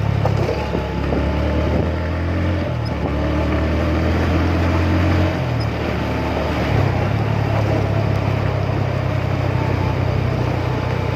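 Motorcycle engine running while riding, its low note stepping down and back up a few times as the throttle or gear changes.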